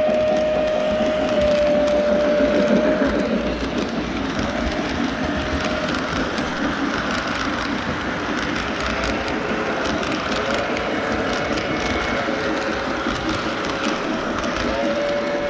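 Model train running on a layout: a steady rumble with many fine clicks of wheels over the track. A held whistle-like tone sounds for the first three seconds and returns briefly a few times later.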